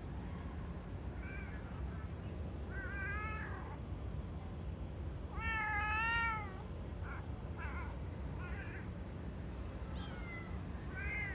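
Cat meowing repeatedly, about eight high-pitched meows, the loudest a longer wavering one about six seconds in, over a steady low hum.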